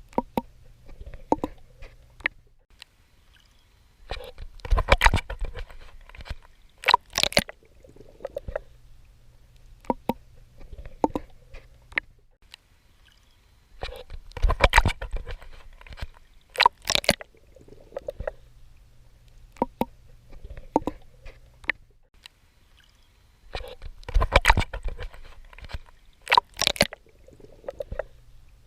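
A swimmer in seawater, heard close up as if snorkeling: a burst of splashing and sloshing water comes about every ten seconds, three times, with scattered bubbly clicks and a faint low hum between the strokes.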